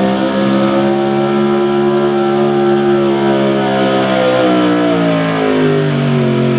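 Small-block V8 pulling truck running near wide-open throttle as it drags the sled, its engine note held high and steady. It begins to fall in pitch over the last couple of seconds as the truck slows under the load.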